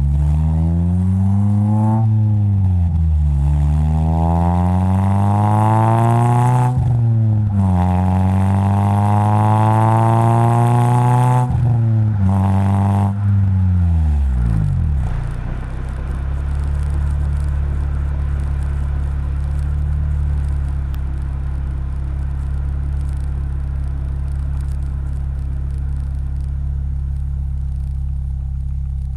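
2003 Honda Civic Si (EP3) four-cylinder engine through a Magnaflow cat-back exhaust with a test pipe in place of the catalytic converter. It pulls hard with the pitch climbing, dropping at gear changes about 2, 7 and 12 seconds in. It then comes off the throttle at around 14 seconds and settles into a steady drone at constant engine speed.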